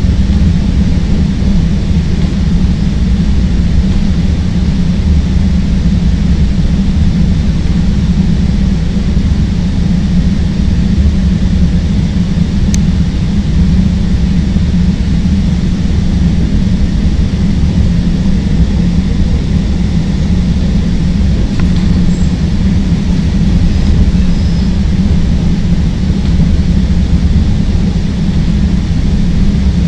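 Chicago 'L' rapid-transit train running at speed on elevated track, heard from inside the car: a loud, steady low rumble of wheels on rail and motors.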